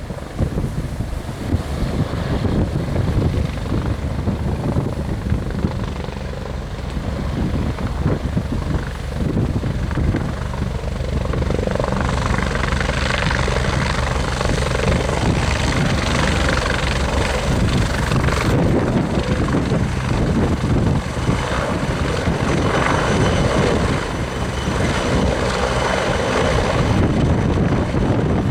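Helicopter's rotor and engine running continuously, growing somewhat louder and fuller about twelve seconds in.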